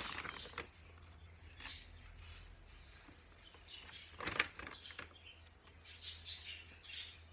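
A small pet bird chirping softly several times, mixed with a few clicks and light knocks, the sharpest about four seconds in.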